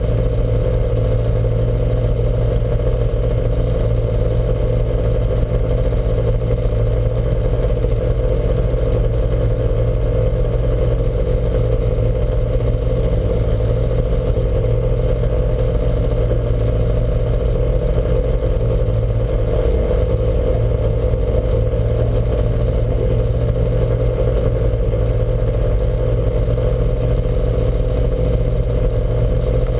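Lancia Montecarlo's four-cylinder engine running at a steady idle, heard from inside the car, with a steady low drone and some clatter.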